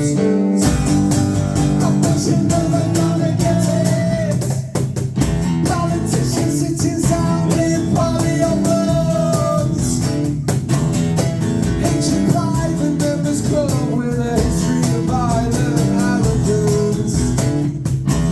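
Live rock band playing with electric guitars, bass guitar and drums, with a sung or lead line over the top.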